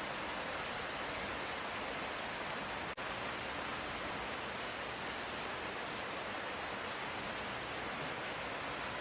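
Steady hiss of light rain, even and unbroken except for a momentary dropout about three seconds in.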